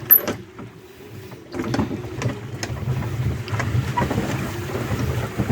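Wind buffeting the microphone, a low rumble that sets in about a second and a half in, with a brief sharp sound at the very start.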